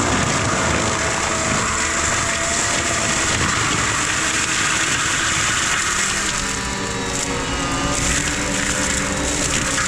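Heavy diesel land-clearing machinery running steadily under load, with a whine that rises in pitch briefly a little past the middle.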